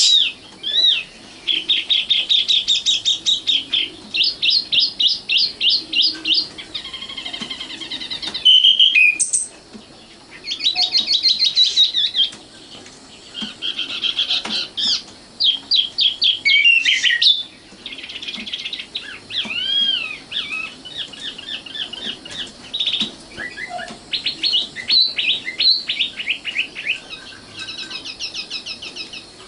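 Common nightingale singing: varied phrases of rapid repeated notes and trills, interspersed with whistled notes and short pauses.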